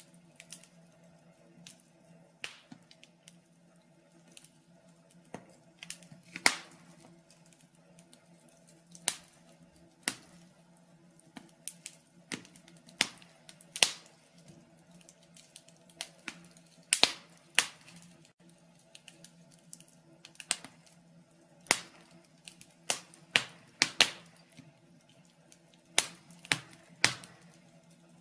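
Wood fire crackling in a fireplace: irregular sharp pops and snaps, a few of them loud, over a faint steady hum.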